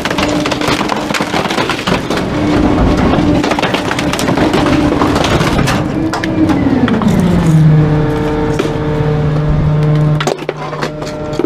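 Garbage truck compactor crushing bulky wooden items, with dense cracking and splintering over the steady tone of the truck's engine-driven hydraulics. About six seconds in, the crushing thins out and the engine tone falls in pitch and settles lower, with only a few cracks after.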